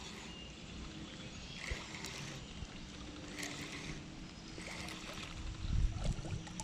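Faint, steady outdoor ambience of water and light wind, with a few soft rustles and a low bump near the end.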